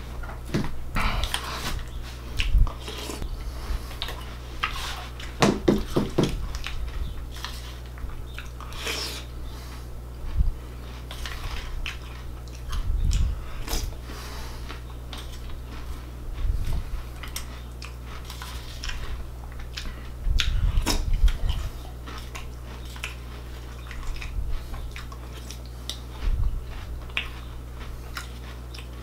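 A person chewing and crunching a mouthful of cereal, with a plastic spoon clicking and scraping against a plastic bowl, over a steady low hum.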